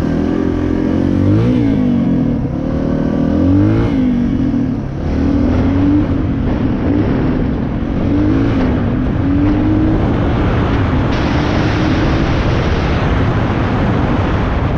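Dirt bike engine on the move, its pitch rising and falling again and again as the throttle is opened and closed. Wind noise on the microphone grows stronger near the end.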